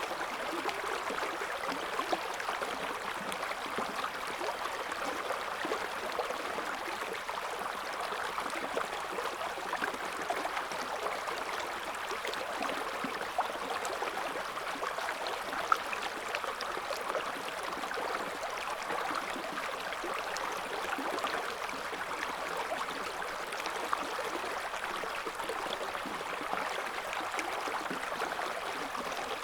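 Shallow river current flowing and babbling over stones: a steady rush of water with small gurgles and splashes, and one louder splash about halfway through.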